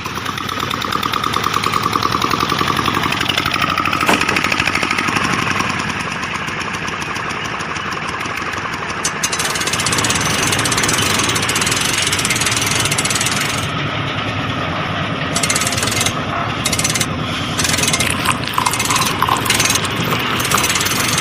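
A small motorised machine running with a fast, even rattle. Its sound changes about nine seconds in, and near the end it cuts in and out several times.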